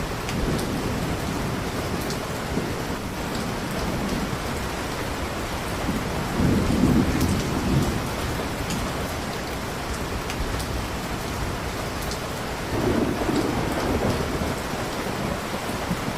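Steady heavy rain with low thunder rumbles, which swell about six seconds in and again near the end. Scattered sharp ticks from a crackling fireplace sound over the rain.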